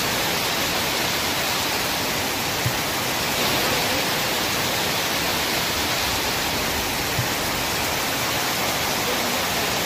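Heavy rain pouring steadily onto trees and waterlogged ground, an even dense hiss.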